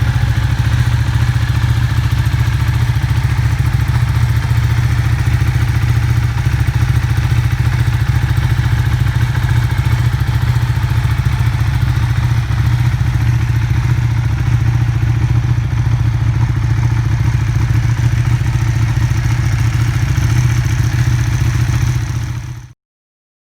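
Ducati 1299 Panigale's Superquadro L-twin engine idling steadily, running loud and even without revving. It cuts off suddenly near the end.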